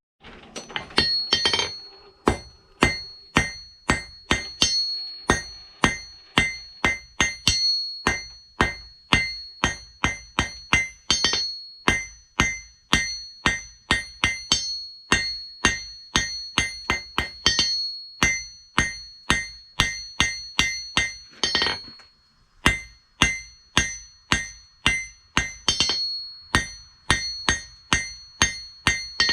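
Hand hammer striking hot spring steel on an anvil, drawing the bar down: steady blows about two a second, each leaving a high metallic ring, with a brief pause about two-thirds of the way through.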